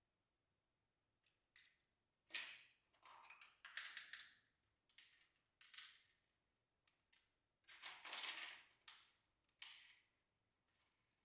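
Slime being squished and pressed by hand, making a series of short crackling pops and squishes that come in irregular clusters.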